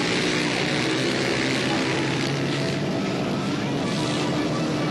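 Several 450cc motorcycles racing on an ice track, their engines running hard in a continuous mixed drone, pitch rising and falling a little as riders get on and off the gas.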